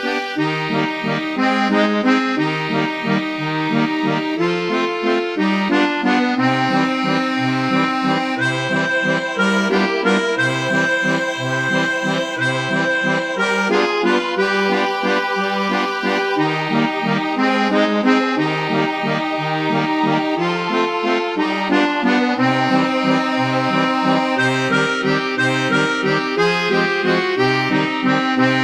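Accordion playing a waltz tune, with a repeating bass-and-chord accompaniment under the melody.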